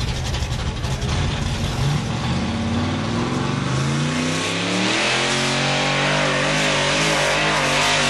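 Truck or tractor pulling engine running at full throttle: its pitch rises over about three seconds, then holds steady at high revs with a loud hiss over the top.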